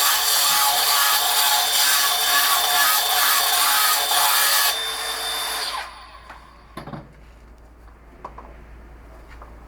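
A handheld power tool grinding or abrading stone. The tool runs steadily, then is lifted off about five seconds in and spins down to a stop, leaving a few light knocks.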